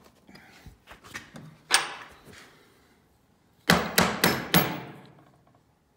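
A tool used as a hammer strikes the metal parts of a vintage truck heater: light knocks, one hard blow about two seconds in, then four quick strikes with a faint metallic ring near the end.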